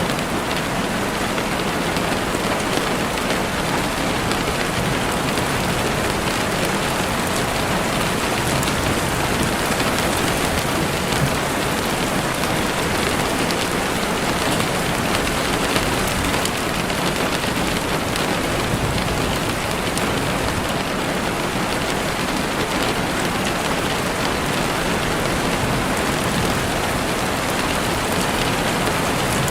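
Heavy rain falling steadily on a window, a dense even hiss with fine drop ticks.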